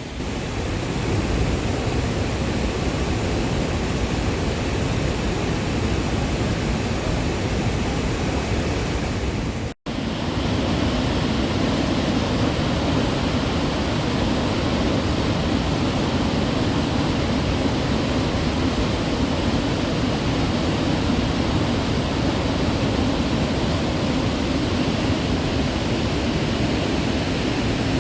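Waterfall rushing steadily. The sound drops out for an instant about ten seconds in, then the same rush carries on.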